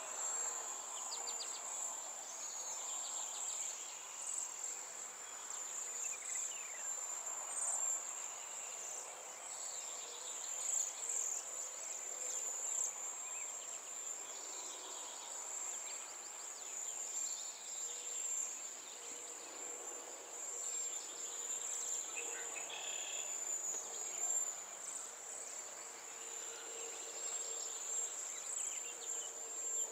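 Insects trilling in one steady, high-pitched drone, with scattered short bird chirps and calls over it.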